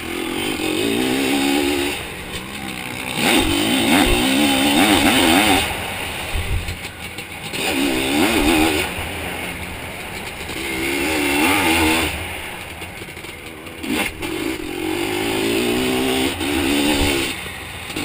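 Zabel 700 two-stroke sidecarcross engine heard close up from on board, revving hard and dropping back about six times as the throttle is opened and closed around the track.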